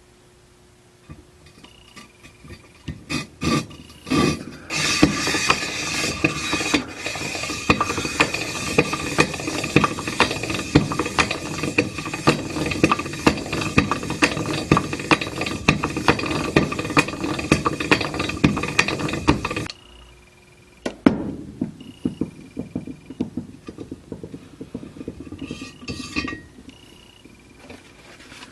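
Hand-operated valve lapping tool turning a Briggs and Stratton intake valve against its seat, a gritty metal-on-metal scraping full of rapid clicks. It runs steadily for about fifteen seconds and then stops suddenly, with shorter bouts of clicking and rattling before and after.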